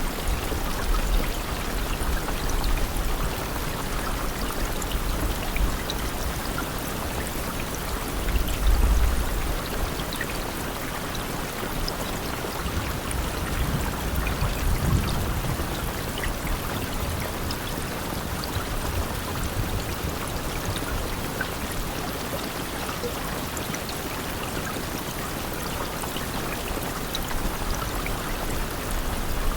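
Steady rain: an even hiss of falling water with scattered drop ticks. A low rumble swells briefly about nine seconds in and again around fifteen seconds.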